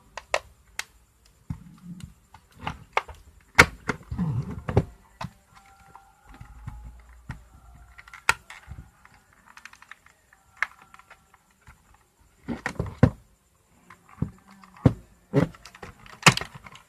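Irregular sharp clicks, clinks and knocks of an electric iron's metal and plastic parts being handled and worked on with hand tools during disassembly.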